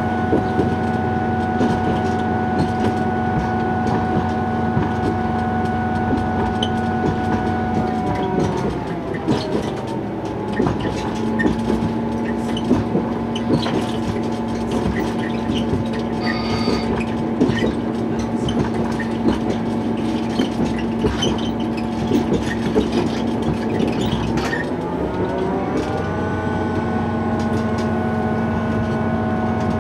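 Diesel railcar running, with a steady engine note and many short clicks of the wheels over the rails. About eight seconds in the engine note drops, and it climbs back up near the end.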